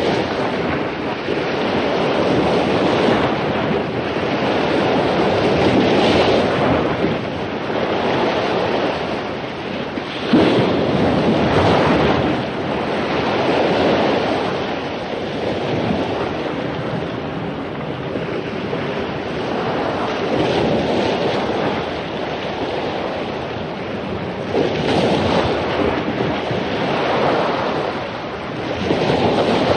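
Heavy surf after a storm: ocean waves crashing on a beach in a continuous wash that swells and falls back every few seconds, with one sharp break about ten seconds in.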